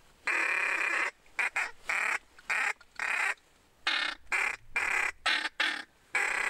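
A bird giving a run of about a dozen harsh calls in quick succession, the first the longest.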